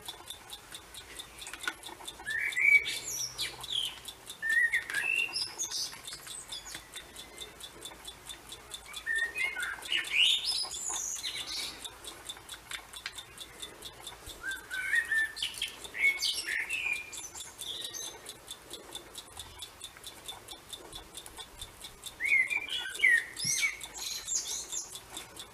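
A songbird singing short phrases of quick chirps, about five phrases spaced several seconds apart.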